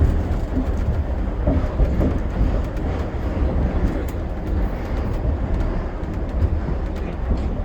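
Shonan Monorail 5000-series suspended monorail train running at speed, heard from on board: a steady low rumble from its rubber-tyred bogies and traction motors.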